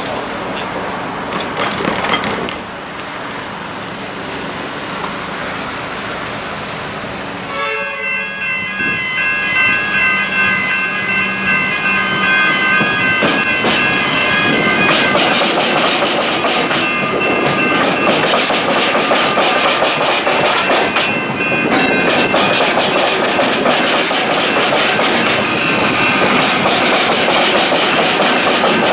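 Electric suburban train passing over the tram-square crossing, with a steady motor whine and wheels clattering over the crossing rails. The sound gets louder about halfway through.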